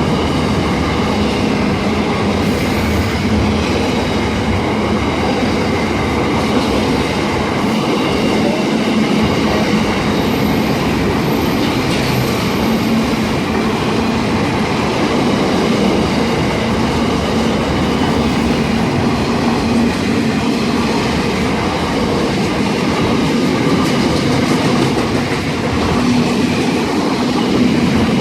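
Wagons of a long steel freight train rolling past on the rails: a steady, loud rumble of wheels on track.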